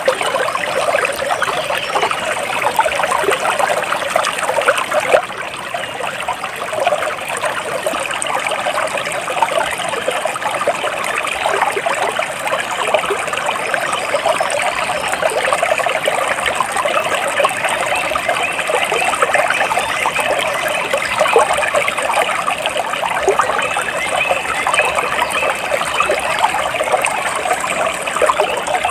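Stream water trickling and burbling steadily.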